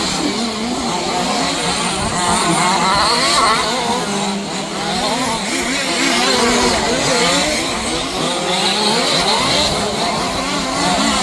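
Several 1/5-scale RC cars' small two-stroke petrol engines running together, their overlapping pitches rising and falling as the cars accelerate and back off around the track.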